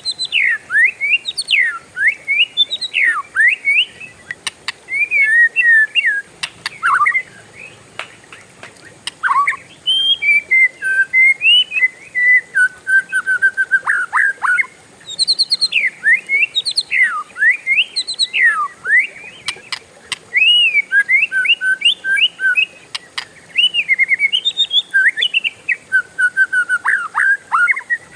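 Oriental magpie-robin (kacer) singing a long, nearly unbroken song of loud whistled notes and quick up-and-down sweeps, with runs of rapid repeated notes and a brief pause about halfway.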